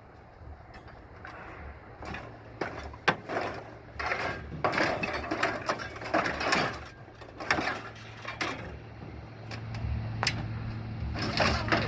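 A string of knocks, clanks and rattles over a low, steady truck engine hum, which grows louder in the last couple of seconds.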